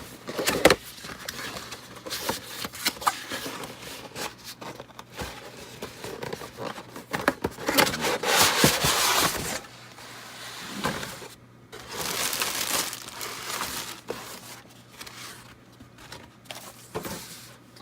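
Plastic bags of model kit parts crinkling and rustling as a cardboard kit box is opened and the parts are handled, with scattered clicks and knocks. A longer, louder stretch of crinkling comes about eight to nine and a half seconds in.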